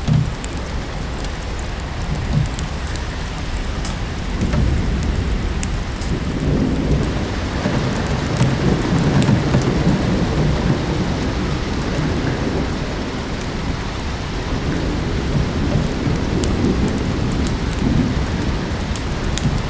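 Steady rain with a long, low thunder rumble that builds about four seconds in, peaks midway and slowly fades. Scattered small fireplace crackles tick over the rain.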